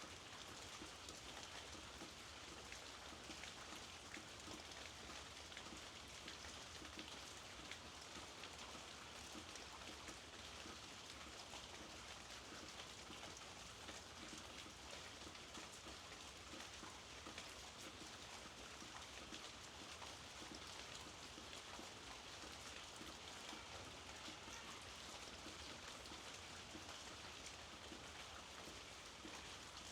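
Steady rain falling: a faint, even hiss dotted with many small drop ticks.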